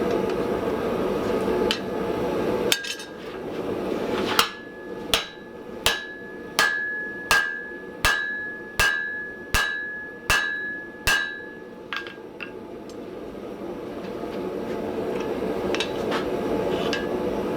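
About ten evenly spaced hammer blows on steel at the anvil, roughly one every 0.7 s, each leaving a short high ring. The blows are driving a hot hardy's shank into the anvil's hardy hole to set it. A steady rushing noise is heard before the blows and again after them.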